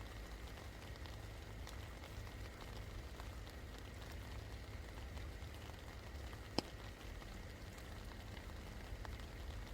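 Steady rain falling, with scattered drops tapping and one sharper tick about six and a half seconds in, over a steady low rumble.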